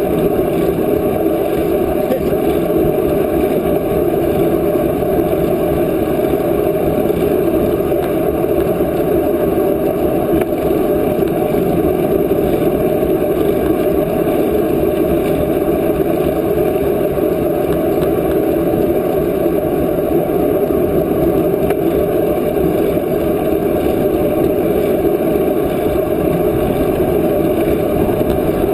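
Steady wind rush over the microphone of a camera riding along on a moving bicycle, loud and even with no breaks.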